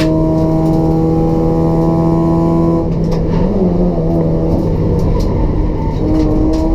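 Race-built Toyota Etios 1.5-litre four-cylinder petrol engine with a free-flow exhaust, held at steady high revs. About three seconds in the steady note breaks off into a rougher, uneven sound as the throttle comes off. It settles back to a steady pitch shortly before the end.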